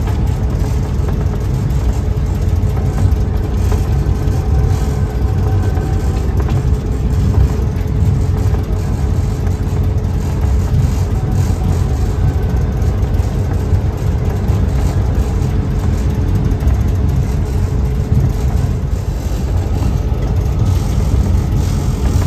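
Train running steadily, heard from on board the locomotive cab: a continuous heavy low rumble of engine and running gear with a faint steady drone.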